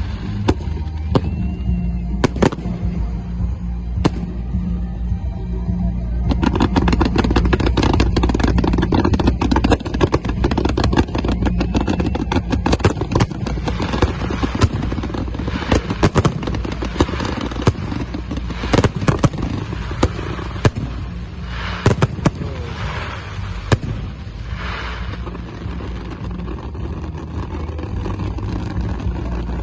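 Fireworks bursting: repeated sharp bangs over a steady low rumble, thickening about six seconds in into a dense run of rapid crackling that thins out again after about twenty seconds.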